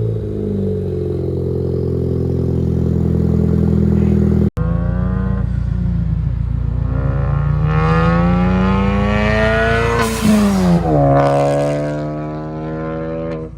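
A 2015 Ford Focus ST's turbocharged 2.0-litre four-cylinder, fitted with a catless downpipe and an aftermarket catback exhaust, accelerating under way: the exhaust note climbs in pitch, drops sharply about two-thirds of the way in, then holds steady. The sound cuts out for an instant about a third of the way in.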